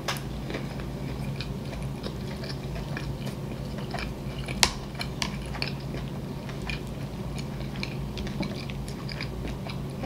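A person chewing a mouthful of spicy shrimp sushi roll, with many small wet mouth clicks throughout and one sharper click about halfway through.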